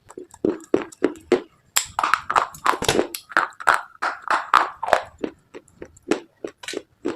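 Close-miked biting and chewing of brittle slate items: an irregular run of crisp crunches, several a second.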